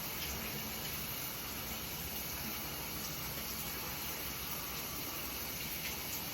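Running water spraying steadily in an even hiss during a puppy's bath.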